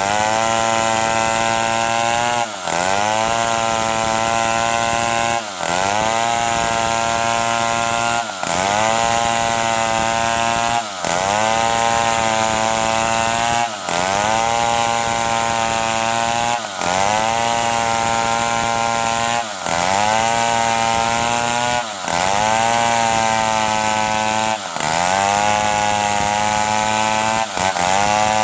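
Stihl 070 two-stroke chainsaw running at high revs, sawing wood into boards. Its note dips sharply and climbs back about every three seconds.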